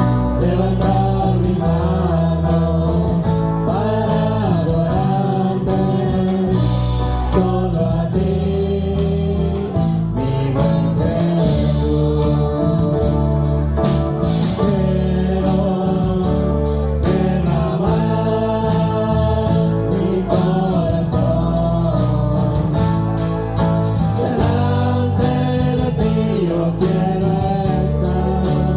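Live Christian worship music: voices singing with a band over heavy bass and a steady beat.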